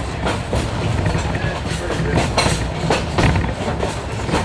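Passenger coach rolling along the track, heard from inside: a steady low rumble with irregular clicks and knocks from the wheels and running gear, and indistinct voices underneath.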